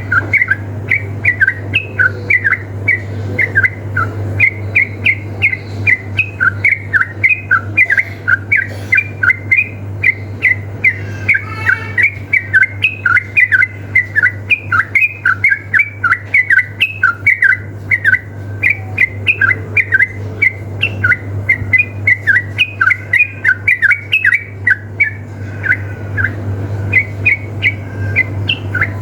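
Yellow-vented bulbuls (trucukan) in a duel of rapid, unbroken 'ropel' song: a fast stream of short, sharply gliding chirping notes, several a second, over a steady low hum.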